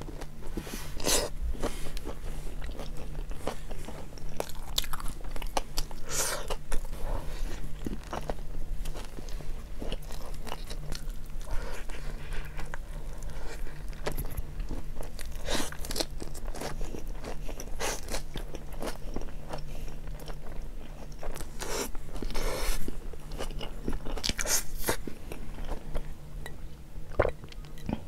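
Close-up mouth sounds of biting into and chewing a hot dog, bun and sausage: irregular wet chews and crunchy bites.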